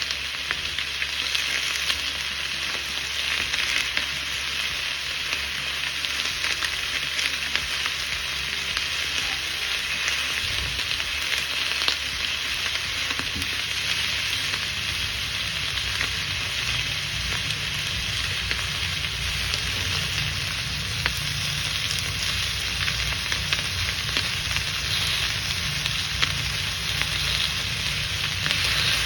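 Food frying in oil in a pan: a steady sizzle with fine crackling throughout.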